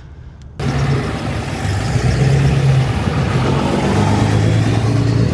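A truck engine running under a steady rush of road and tyre noise. It starts abruptly about half a second in, and the low engine note shifts pitch a few times.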